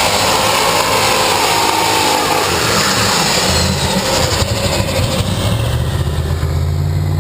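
Alcohol-fuelled super stock pulling tractor, a multi-turbocharged engine running hard under load, with a falling turbo whine. About six and a half seconds in the high part of the sound drops away and the engine settles to a lower, steadier note as it backs off at the end of the pull.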